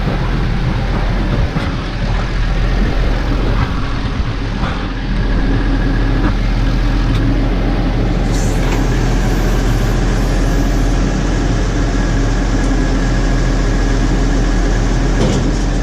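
New Holland 6080 tractor's diesel engine running steadily at an even speed.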